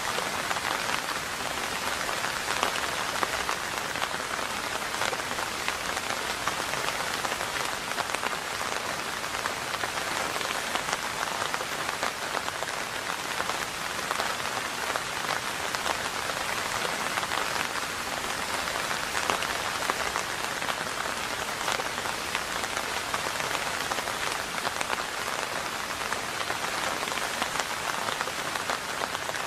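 Steady rain falling: an even hiss dense with fine drop ticks.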